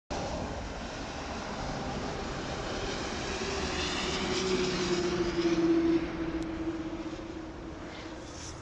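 A motor vehicle or aircraft passing by: a steady engine drone that builds to its loudest about six seconds in, then falls away.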